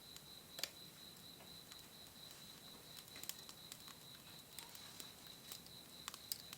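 Wood campfire crackling softly, with scattered sharp pops, the loudest about half a second in and small clusters around the middle and near the end. An insect trills steadily in the background as a high, evenly pulsing note.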